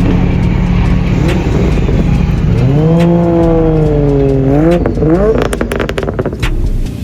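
A car engine revving: a steady running note, then a long rev that rises, sags and climbs again, followed by a quick run of sharp cracks about two-thirds of the way through.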